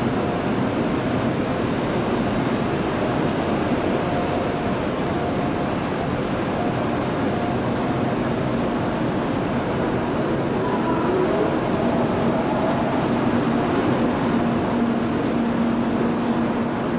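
N700A Shinkansen train rolling slowly along a station platform as it brakes to a stop: a steady rumble of wheels and running gear, with a high hiss that comes and goes twice. A steady low hum sets in near the end.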